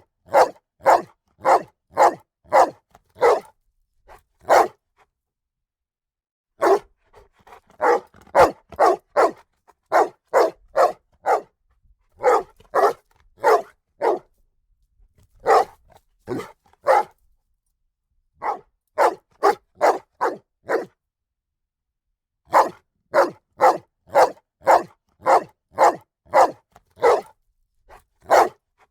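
A dog barking loudly in rapid runs of sharp barks, about two to three a second, broken by short silent pauses.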